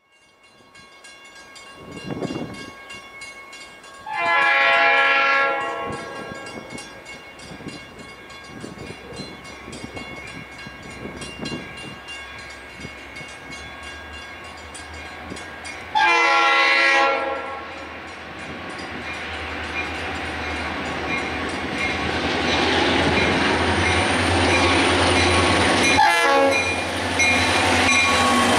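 Freight train's diesel locomotives sounding two long horn blasts, about four seconds in and again around sixteen seconds in. The train then grows steadily louder as the locomotives come up and pass, with a sharp knock near the end.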